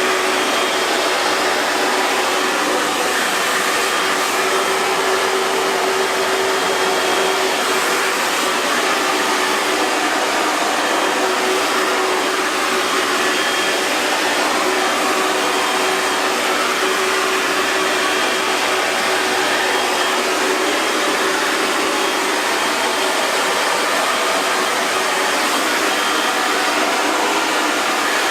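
Hair dryer running steadily: an even airflow rush with a faint motor hum.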